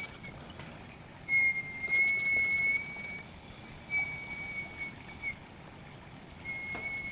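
A high, steady whistle-like tone, held for about one to two seconds at a time and heard four times with short gaps, over a faint low background hum.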